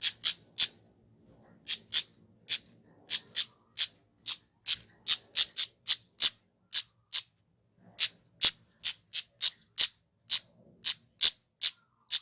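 Kemade flowerpecker calling: a quick string of short, sharp, high-pitched notes, about two to three a second, broken by brief pauses.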